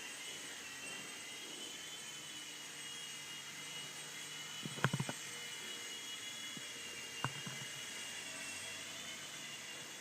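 Blade mCX2 micro coaxial RC helicopter's small electric motors and rotors, a steady high-pitched whine. A quick cluster of sharp knocks comes about five seconds in, and one more a little after seven.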